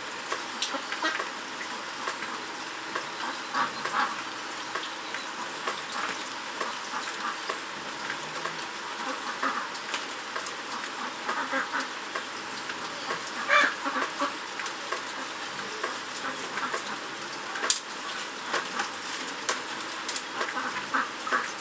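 Steady hiss of rain, with scattered short clicks and taps over it.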